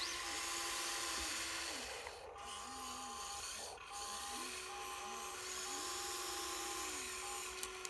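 Small electric motors of a Huina radio-controlled Mercedes Arocs dump truck model whining, their pitch rising, holding and falling several times as they speed up and slow down, over a higher steady tone that cuts in and out.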